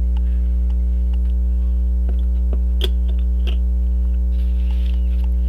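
Steady electrical mains hum with its overtones, with a few faint small clicks of metal tools on the watch as the pocket watch movement is lifted out of its case, about two to three and a half seconds in.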